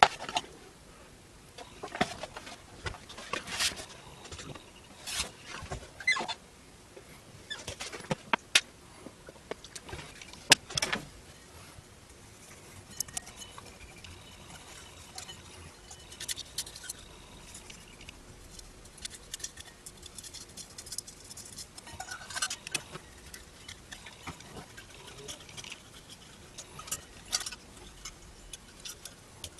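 Irregular clicks, taps and short scrapes of small objects being handled and worked on a workbench.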